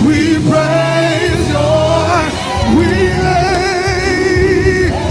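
African gospel praise music: a singer holds long notes with a wavering vibrato over a steady bass line.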